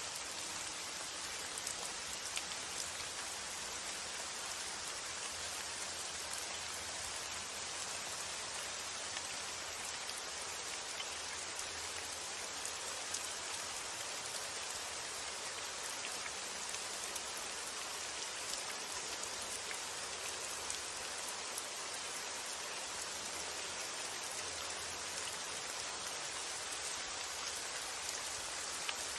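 Steady rain falling: an even, unbroken hiss of drops with faint scattered ticks of single drops.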